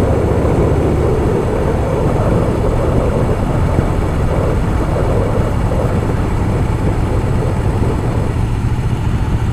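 Harley-Davidson Softail Fat Boy's V-twin engine running steadily at riding speed, heard over wind rushing past the microphone.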